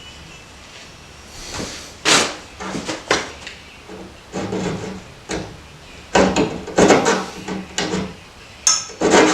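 Coping saw cutting through a wooden board with short, irregular scraping strokes, starting about a second and a half in.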